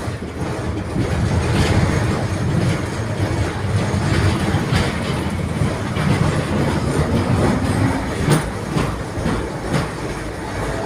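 A 71-631 tram running along the track: a steady rumble of wheels and running gear, with several sharp clacks as the wheels cross rail joints.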